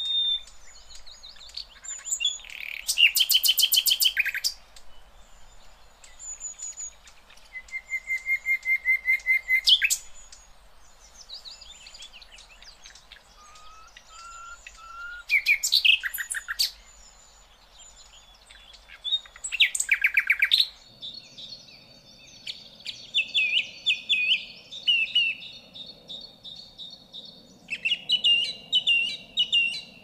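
Birds-of-paradise calling: several series of loud, rapidly repeated harsh notes, a few seconds apart, over fainter chirping of other birds. About two-thirds of the way through, the background changes to lighter, higher chirping with a steady high tone and a low hum.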